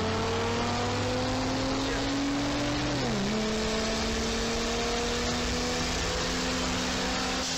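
Car engine pulling hard at highway speed, its pitch climbing steadily, dropping sharply at an upshift about three seconds in, then climbing again. Heavy wind and road noise run underneath.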